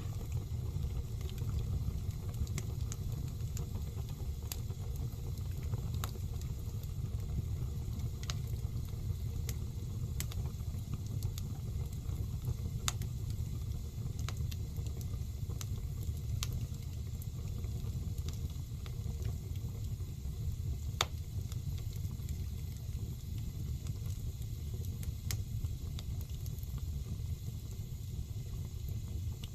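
Wood fire burning in a fireplace: scattered sharp pops and crackles from the burning logs over a steady low rumble.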